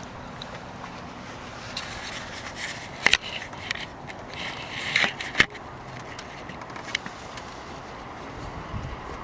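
Scraping and rubbing handling noises with several sharp knocks and clicks, the loudest about three and five seconds in.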